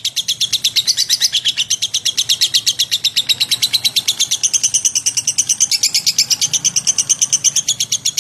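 Lovebird chattering in one long unbroken run of rapid, evenly spaced high chirps, about eight or nine a second.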